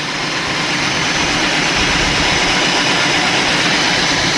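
Concrete-cutting machine running steadily under load, a loud, even machine noise.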